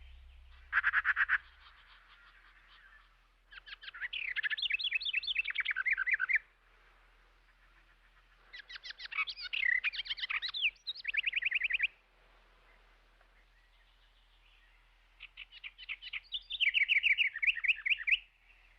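A songbird singing bursts of rapid trills and chirps, four phrases with short pauses between them.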